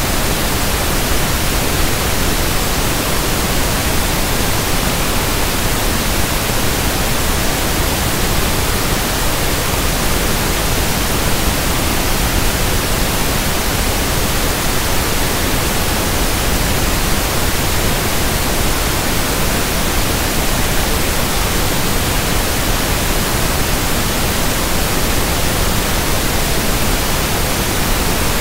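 Steady synthetic pink noise (1/f noise): an even, unchanging hiss spread across all pitches.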